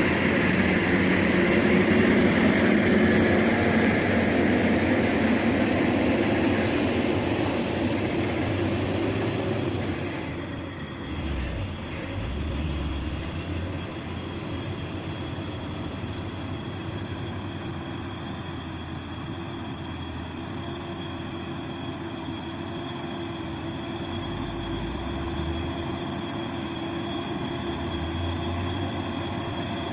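Heavy truck diesel engine running under load: loud for about the first ten seconds, then fading to a quieter, steady drone.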